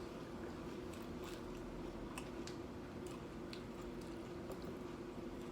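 Close-miked chewing of tortilla-chip nachos, with scattered crisp crunches over a faint steady low hum.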